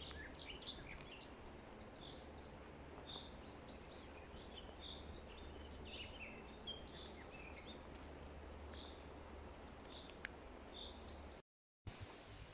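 Faint birdsong in a forest: many short chirps and calls from small birds over a steady hiss. The sound drops out to silence for a moment near the end, then the hiss returns.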